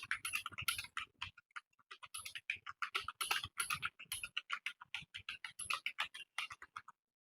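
Computer keyboard being typed on fast, a rapid irregular stream of key clicks with a brief pause about a second and a half in.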